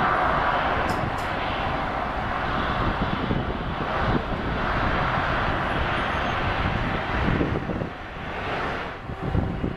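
Jet engines of an Airbus A330-243F freighter running, a steady wide noise without tones; it wavers and dips near the end.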